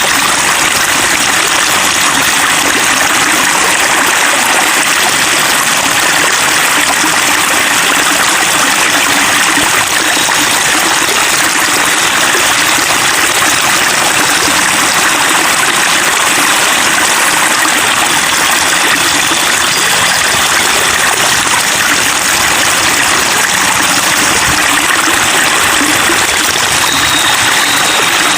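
Running water babbling and trickling, an even, unbroken rush.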